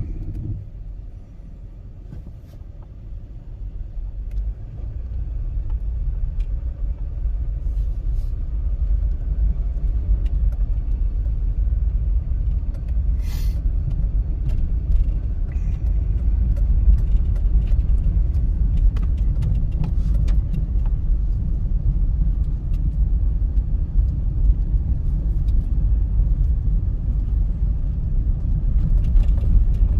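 Inside the cabin of a 1998 Mazda MPV Allsport 4WD pulling away and driving: a steady low engine and road rumble that builds over the first few seconds, then holds.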